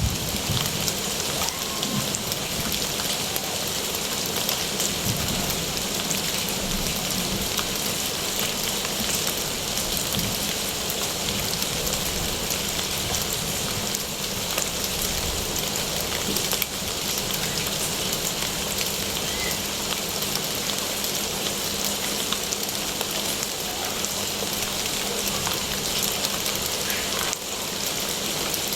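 Steady rain falling, an even, continuous hiss of drops.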